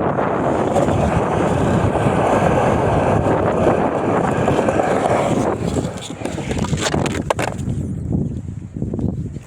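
Skateboard wheels rolling on wet concrete, a steady rumble that eases off about five and a half seconds in, followed by a few sharp clacks of the board.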